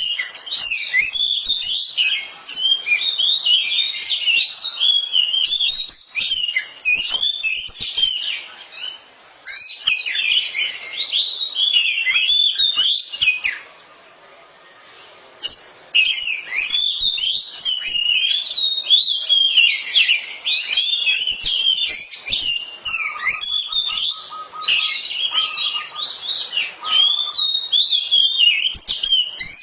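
A pair of oriental magpie-robins (kacer) singing against each other: a rapid, varied stream of high whistles and chirps that breaks off in two short pauses near the middle.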